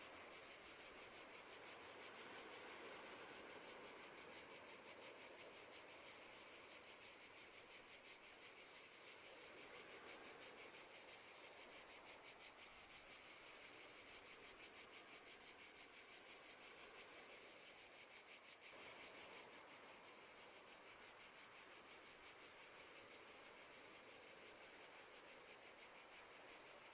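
Crickets chirping in a faint, steady, rapid high trill.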